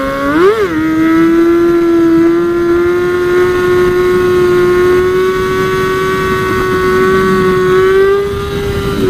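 Sport bike's inline-four engine running at high revs while riding, with a brief rev spike about half a second in, then a steady note that climbs slowly in pitch and eases off near the end.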